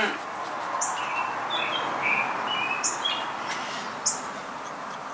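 A few short bird chirps over a steady background hiss, with several light clicks as small clay pieces are set onto kiln posts.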